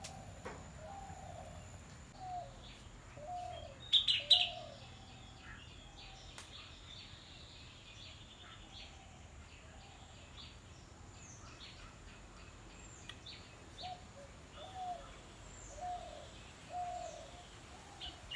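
Birds calling outdoors. One bird repeats a short, low, slurred call about once a second at the start and again near the end. Other birds give scattered higher chirps, with a pair of loud sharp chirps about four seconds in.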